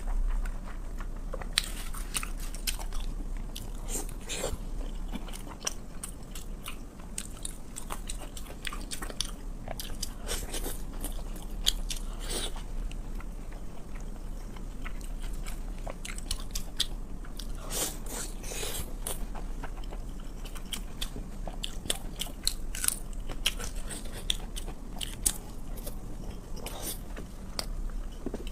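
Close-miked eating of braised pork belly: irregular bites and chewing with sharp little clicks scattered throughout. A steady low hum runs underneath.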